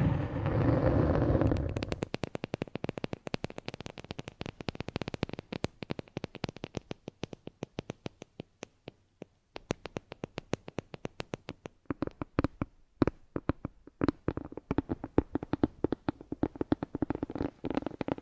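Close-miked rumbling noise for the first couple of seconds, then a rapid, irregular stream of sharp clicks and taps, many a second, with a couple of short pauses.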